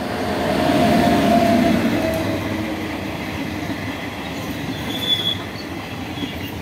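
Express train passing close: the WAP-7 electric locomotive goes by with a loud rush and a steady tone, loudest about a second in, then its passenger coaches roll past with a steady rumble of wheels on rails. A short high squeal comes about five seconds in.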